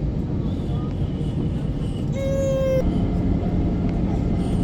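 Airliner cabin noise: a steady low rumble of the aircraft's engines and airframe on the ground before take-off. About two seconds in, a short, steady electronic tone sounds once, and the rumble grows slightly louder afterwards.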